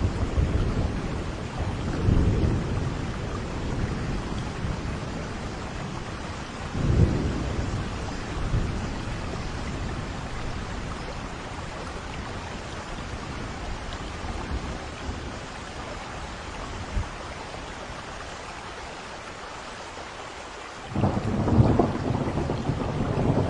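Steady rain falling during a thunderstorm, with low thunder rumbling. The thunder swells twice early, fades, then a loud roll breaks in suddenly near the end.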